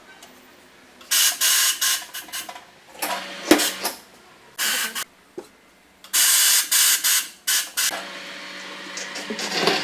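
Short bursts of hissing come in clusters, each burst lasting from a fraction of a second to about a second, and start about a second in.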